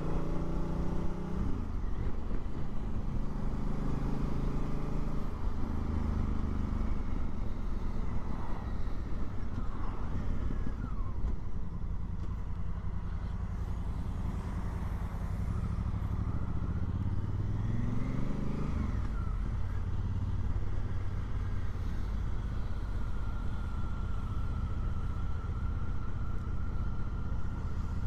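Honda Africa Twin's parallel-twin engine running on the road. Its pitch drops about a second in, climbs as it accelerates about eighteen seconds in, then holds steady.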